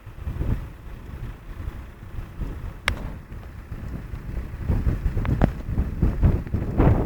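Storm wind buffeting the microphone in heavy gusts, a low rumbling that grows stronger in the second half, with one sharp click about three seconds in.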